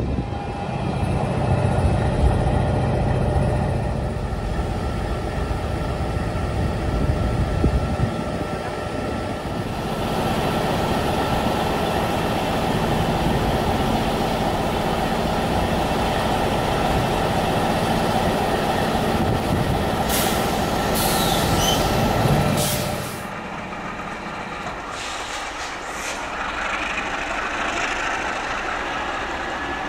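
MLW diesel locomotive engines running with a steady, heavy hum and a whine, with short hisses of air about twenty seconds in. The sound drops to a quieter level about 23 seconds in.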